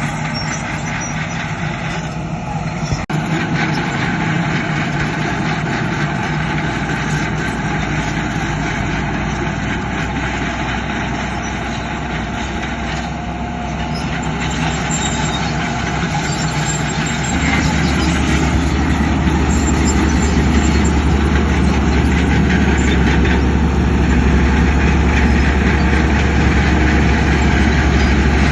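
Heavy diesel engine of earthmoving machinery running steadily, with a sharp click about three seconds in. Its low drone steps up and grows louder about two-thirds of the way through.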